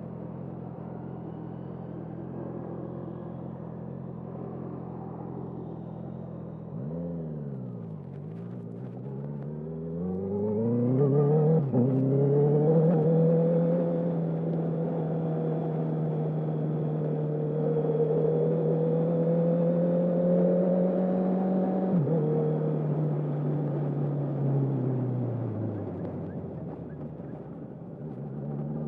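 2021 Honda CB650R inline-four with a full Akrapovic exhaust, no dB killer, under way. It holds steady revs, dips and climbs, and makes a quick upshift with a brief cut about twelve seconds in. It then pulls steadily until the throttle is shut about 22 seconds in, the revs die away, and it picks up again near the end.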